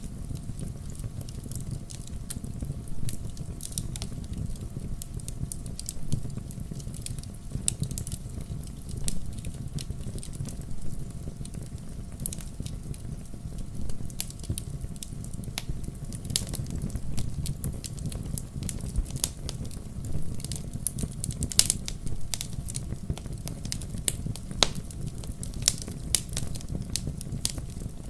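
Wood campfire crackling, with frequent sharp irregular pops and snaps over a low steady rumble of burning.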